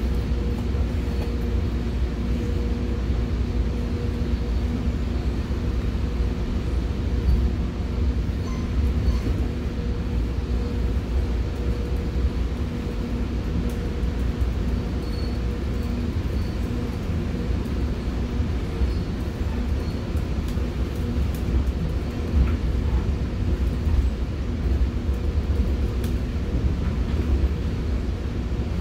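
Commuter train running along the rails, heard from inside a passenger coach: a steady low rumble with a constant hum under it and a few faint ticks.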